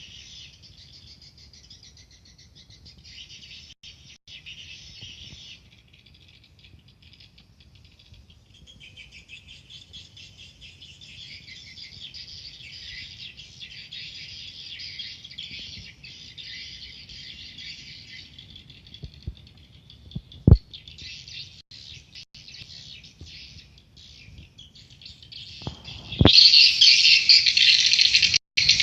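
Swiftlets twittering: a dense, continuous mass of high chirps. There is a single sharp click about twenty seconds in, and the chirping becomes much louder suddenly near the end.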